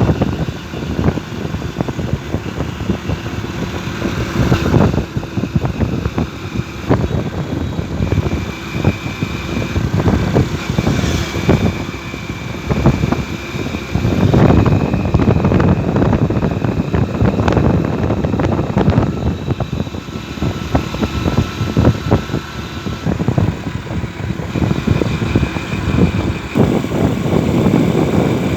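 Motorcycle engine running steadily while riding, mixed with an uneven rumble of wind over the microphone.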